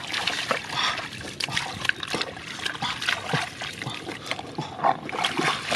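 Shallow water splashing and trickling in many short, irregular splashes as hands work through it catching catfish.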